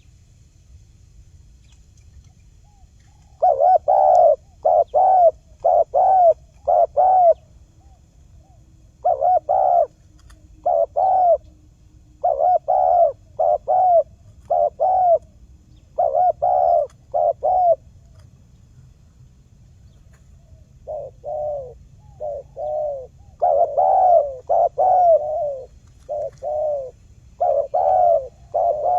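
Spotted dove cooing: phrases of four or five short, hollow coos repeated with brief pauses, starting a few seconds in, with a quieter run of coos about two-thirds of the way through.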